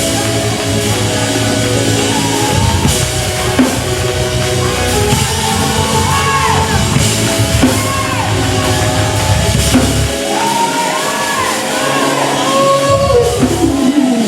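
Live church band playing gospel worship music: drum kit with held keyboard chords and a bass line. The bass and drums drop out about ten seconds in, come back briefly, and a note slides downward near the end.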